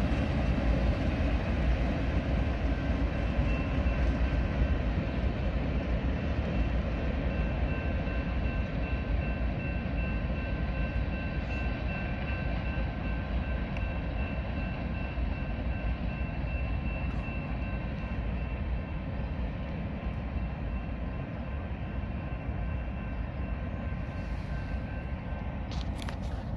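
Freight train rolling away with the rear GE C45AH distributed-power locomotive at its end: a steady rumble of engine and wheels that slowly fades as it recedes.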